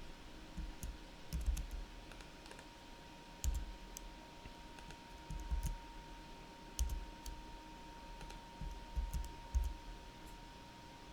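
Computer keyboard keys and mouse buttons clicking in small irregular clusters, some strokes with a dull thud on the desk.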